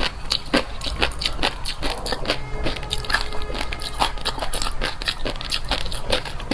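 Close-up eating sounds of fish roe being chewed: a rapid, irregular run of crisp pops and clicks as the roe eggs burst between the teeth.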